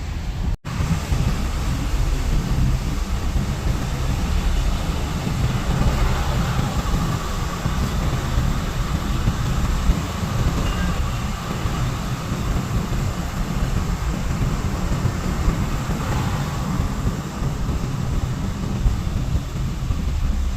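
Steady outdoor rumble of wind buffeting the microphone, with the noise of a passing vehicle swelling and fading through the middle. A brief break in the sound just after the start.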